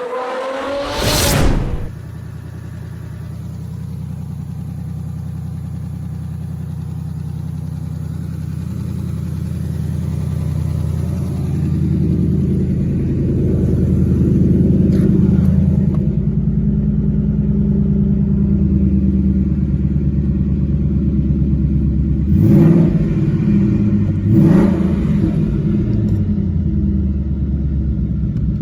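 Ford Gen 3 5.0 Coyote DOHC V8 in a Mustang: a short loud burst about a second in, then a steady idle, with two quick blips of the throttle near the end.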